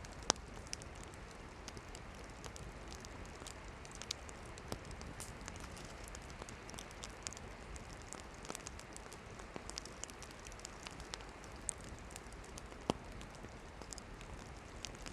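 Wood campfire burning: a steady soft hiss with scattered sharp crackles and pops, one louder pop just after the start and another near the end.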